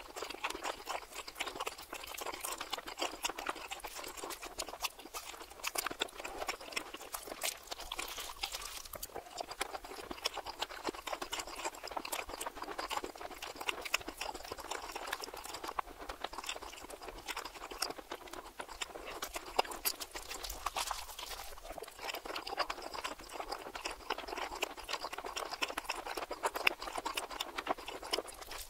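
Close-miked chewing of a Philly cheesesteak on a toasted roll, played backwards: a dense, continuous run of small crackles and clicks from the bread and the mouth.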